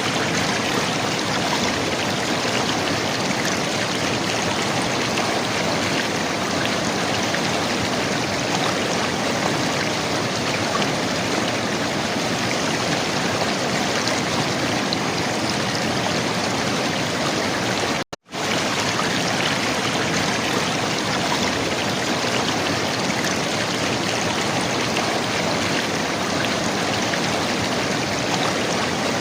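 River water gurgling, a steady, unbroken rush of flowing water. It drops out to silence for a split second about 18 seconds in, then carries on as before.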